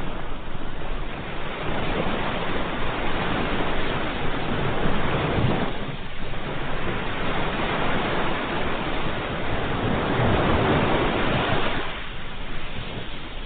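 Ocean surf: waves breaking and washing in as a continuous rush that swells and eases, with lulls about every five to six seconds.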